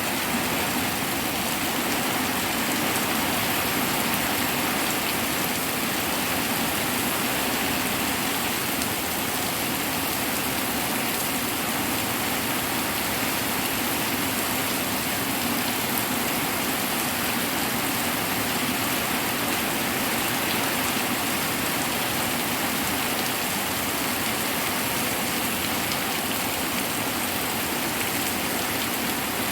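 Hard rain falling steadily, an even, dense hiss with no let-up.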